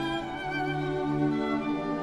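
Background music of bowed strings: violin and cello playing sustained notes with vibrato.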